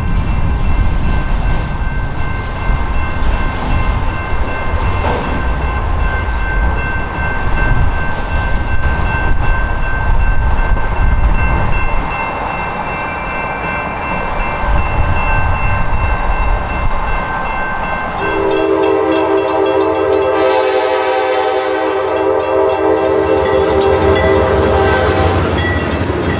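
Freight train of autorack cars rolling past, a low rumble of wheels on rail with steady high ringing tones, fading after about twelve seconds. About eighteen seconds in, a diesel train horn sounds a long steady chord for about eight seconds.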